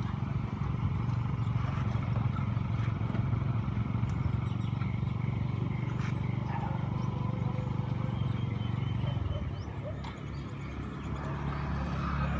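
Taxi boat's engine running steadily. About nine seconds in it eases off, then picks up again with a deeper tone.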